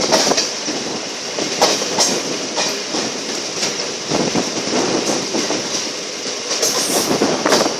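Passenger train running at speed: a steady rush of wheels on rail, with sharp clacks every second or two as the wheels cross rail joints.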